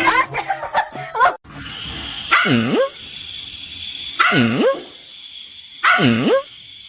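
A dog barking three times, about every two seconds. Each bark is a drawn-out call that dips in pitch and then rises. Under it runs a steady hiss, and a quick jumble of short sounds comes first.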